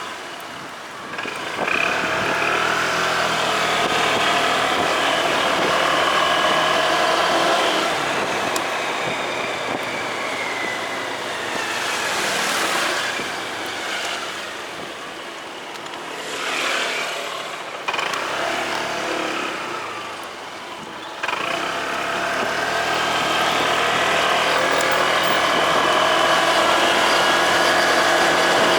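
Motorcycle engine running while riding in traffic. Its pitch slides down a little over a third of the way in as it eases off, with rushing traffic noise in between, then it picks up again sharply about three quarters of the way through.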